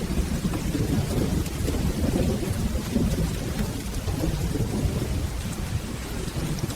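Steady rain with a continuous low rolling rumble of thunder underneath, from a mixed storm ambience track.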